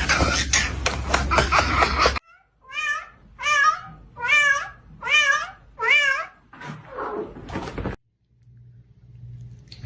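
A cat meowing over and over: five loud meows about two-thirds of a second apart, then a few fainter ones.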